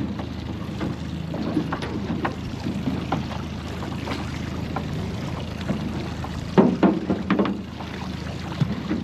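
Steady low hum of a boat on the water, with scattered knocks and clatter and a louder cluster of thumps about six and a half seconds in.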